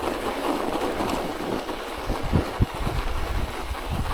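Bicycle riding along a packed-snow path: tyres rolling on snow under wind noise on the microphone, with a few low knocks as the bike jolts over bumps, two of them close together about two and a half seconds in.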